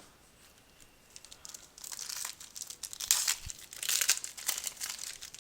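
The foil wrapper of a trading card pack being torn open and crinkled: a dry crackling that starts about a second in and comes in uneven bursts, strongest in the second half.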